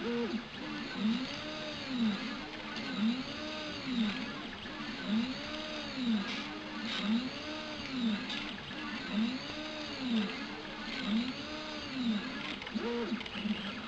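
Prusa i3-type 3D printer's stepper motors working through a run of back-and-forth moves: each move a whine that rises and falls in pitch, repeating about once or twice a second, with a few short clicks in the middle.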